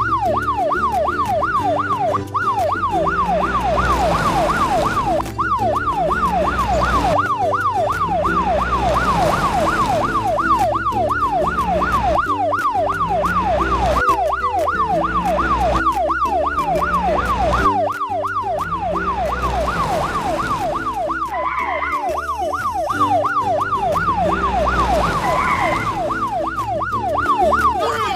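Electronic yelp siren sweeping rapidly up and down in pitch, several times a second without a break, over looping background music with a repeating bass pattern.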